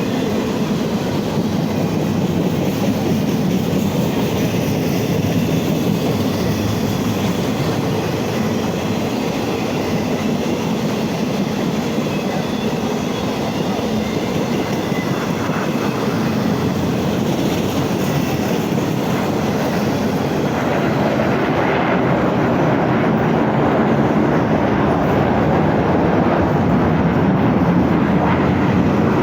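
Train running past on the tracks: a steady, continuous noise of wheels and cars on rail that grows a little louder near the end.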